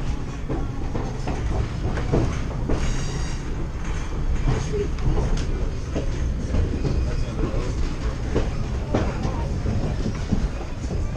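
Passenger train rolling along the track, heard from aboard: a steady low rumble with wheels clacking over rail joints, and a brief high squeal about three seconds in.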